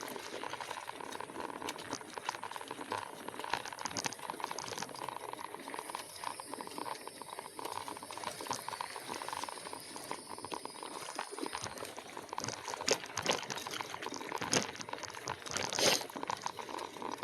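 An e-bike rolling over a rough, uneven trail: the tyres crackle steadily over the ground with many small clicks and rattles. A faint high steady tone comes in for several seconds midway, and the jolts get louder near the end.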